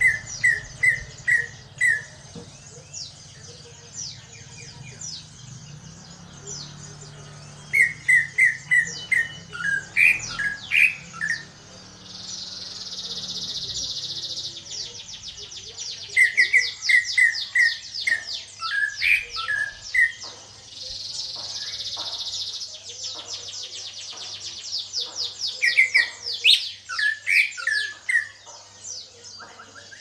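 Caged green leafbird (cucak ijo) singing in loud phrases of quick repeated sharp notes, about five a second, a bird just starting to sing out freely after its molt. Twice between phrases there is a steady high buzzing.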